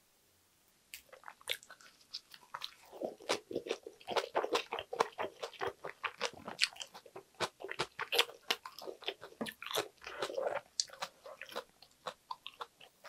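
Close-miked chewing of a mouthful of spicy stir-fried pork intestines and vegetables wrapped in a perilla leaf: dense, quick mouth clicks that start about a second in and thin out near the end.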